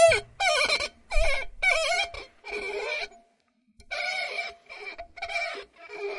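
Glass squeaking as it is rubbed: a series of about nine short squeaks with wavering pitch, broken by a pause of under a second near the middle.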